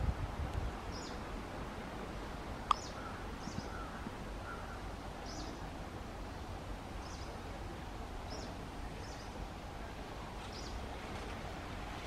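Short, thin, high bird chirps repeated roughly once a second over a steady low outdoor background noise, with a single sharp click a little under three seconds in.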